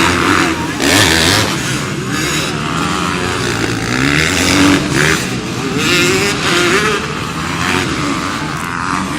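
Racing motorcycle engines running hard, their pitch rising and falling over and over with the revs, over a steady wash of noise.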